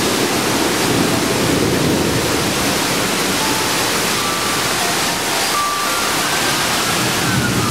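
Heavy thunderstorm rain pouring down steadily. About halfway through, faint distant sirens start up over the rain, one wailing tone slowly falling in pitch near the end.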